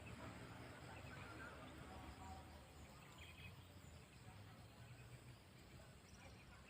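Near silence: a few faint, short bird chirps over low steady background noise.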